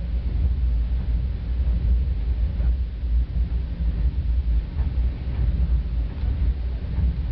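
Steady low rumble inside a moving Caltrain passenger car, with a few faint clicks.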